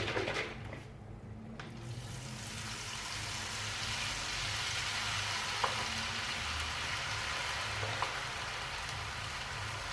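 Tempura batter frying in hot oil, building to a steady sizzle about two seconds in as the fresh batter is dropped in to form tempura flakes (tenkasu). Two faint clicks come through the sizzle.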